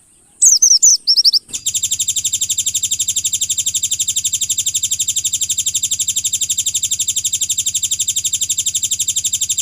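White-eye (pleci) song: about four quick, high chirps sweeping downward, then a loud, very rapid, even trill lasting about eight seconds.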